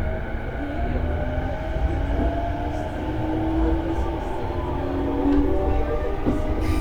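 E233-series electric train heard from inside a passenger car while running, with a low rumble of wheels on rail. The whine of the VVVF inverter and traction motors slowly rises in pitch as the train picks up speed.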